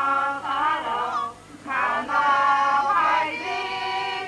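Voices singing a slow melody in long held notes, with a brief break about a second and a half in.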